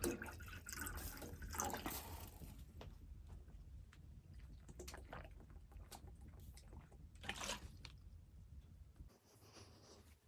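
Liquid pouring and dripping, with scattered clicks and handling noises in a small enclosed space.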